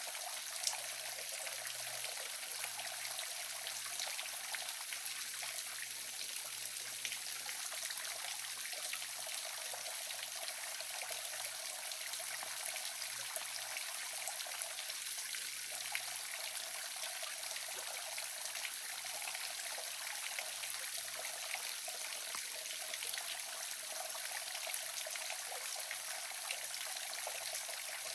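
Small waterfall running steadily: an even rush of falling water with fine splashes and trickles, and no change from one moment to the next.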